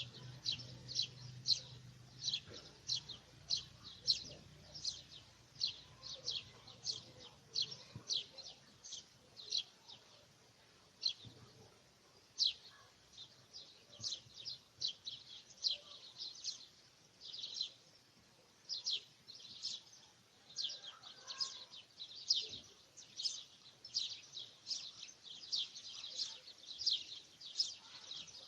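Birds chirping: a steady run of short, high chirps, two or three a second.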